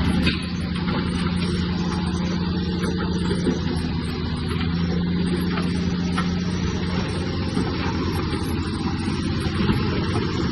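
Heavy diesel earthmoving machinery running steadily, with an even low engine drone throughout.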